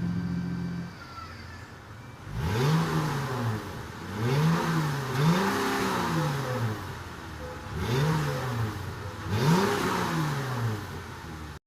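Dodge Challenger 3.6-litre V6 through an exhaust fitted with Quick Time Performance electric cutouts, idling and then revved about five times, each rev rising and falling in pitch. The sound cuts off suddenly near the end.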